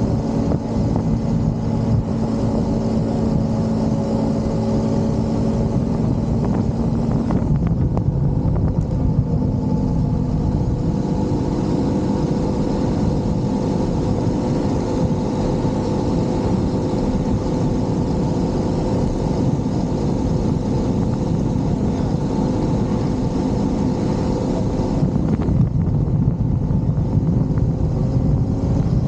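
Motorcycle engine running steadily on the move, mixed with the rush of wind and road noise. The engine note changes about seven seconds in and again about 26 seconds in.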